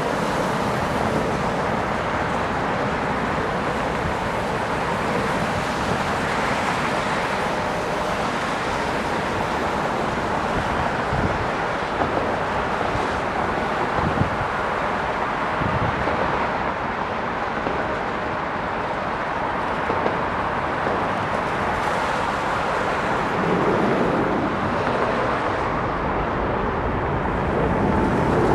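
Steady rushing noise of an airliner's jet engines near the runway, mixed with wind on the microphone.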